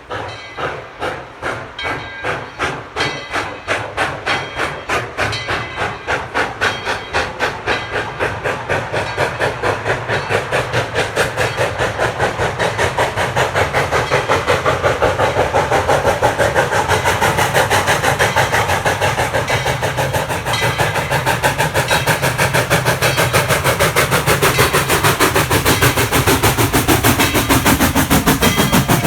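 Exhaust chuffs of Tweetsie Railroad #12, a narrow-gauge Baldwin 4-6-0 steam locomotive, pulling away. The beats start at about two a second and steadily quicken and grow louder as the engine picks up speed.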